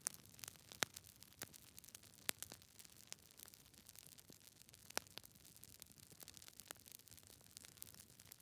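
Wood fire in a fireplace crackling: irregular sharp pops and snaps from burning logs over a soft, steady hiss, with a few louder pops about a second, two seconds and five seconds in.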